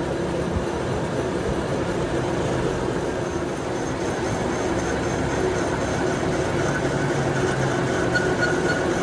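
A workshop machine running steadily with a continuous hum.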